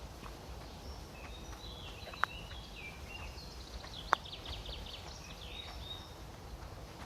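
Songbirds singing short chirps and a rapid trill about four seconds in, over a low rumble of wind. Two sharp clicks, about two and four seconds in, are the loudest sounds.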